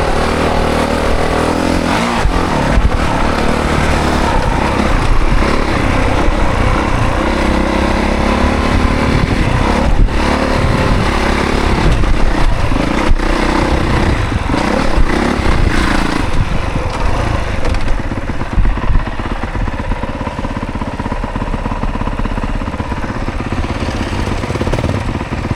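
2024 Honda CRF450 dirt bike's single-cylinder four-stroke engine being ridden hard, revving up and down through the gears, with a couple of sharp knocks along the way. From about two-thirds of the way through it settles into a lower, steadier run.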